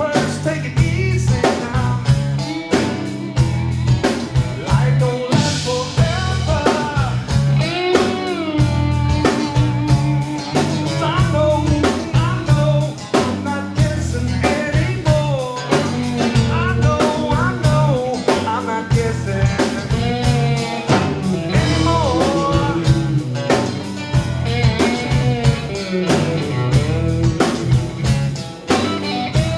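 Live band playing a blues-style number: guitar, bass and drum kit, with continuous drumming and bending guitar or vocal lines.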